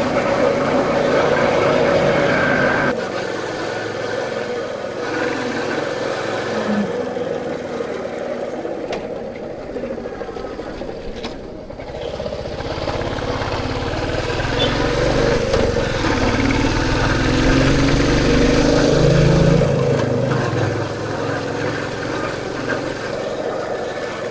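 Royal Enfield Bullet's single-cylinder engine running steadily on the move. It grows louder and deeper about halfway through, then eases off near the end.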